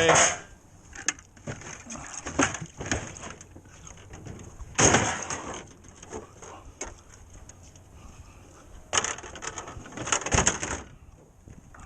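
Drywall hand tools, such as taping knives and a trowel, clattering and scraping in irregular bursts as they are cleaned off and put away after the patch.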